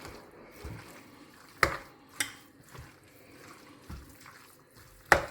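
A few sharp clinks and knocks of kitchen utensils against a pan, over a faint steady hiss.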